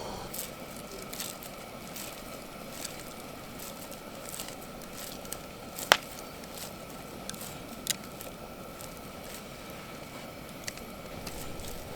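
Wood campfire crackling, with irregular sharp pops and snaps; the loudest snap comes about halfway through.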